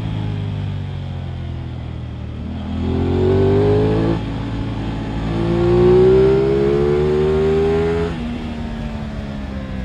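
Aprilia RS 660's parallel-twin engine pulling hard under throttle: the revs climb, fall sharply a little after four seconds in as it shifts up a gear, climb again, then fall as the throttle closes about eight seconds in.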